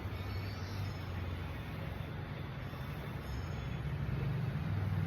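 Steady low rumble of road traffic, growing a little louder near the end.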